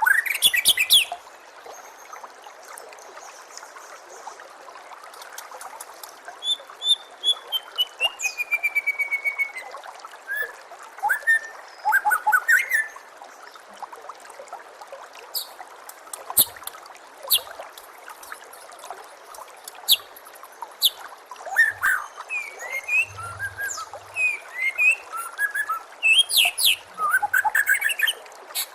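White-rumped shama (murai batu) song: a varied string of whistled glides, a quick falling run of notes, and bursts of rapid sharp chirps, over a steady trickle of running water.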